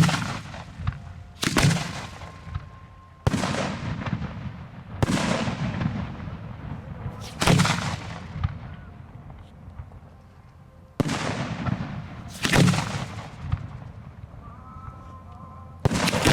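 Fireworks display shells firing and bursting at the shoot site: about eight sharp booms, one every one and a half to three and a half seconds, each trailing off in a long echo.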